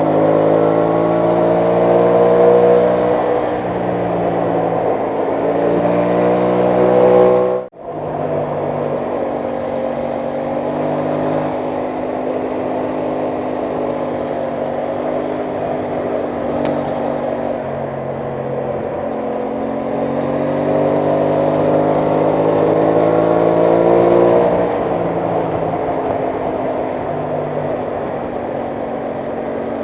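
Aprilia Tuono 660 Factory's parallel-twin engine under way, its pitch rising as the bike accelerates, easing back, then rising again past the twenty-second mark. The sound cuts out for an instant about eight seconds in.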